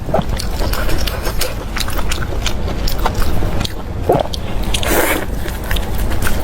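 Close-up eating sounds: a person biting and chewing food, with many short wet clicks and smacks over a steady low rumble.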